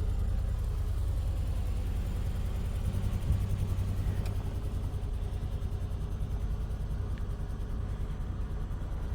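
Car engine running steadily, a low even rumble that swells slightly about three seconds in.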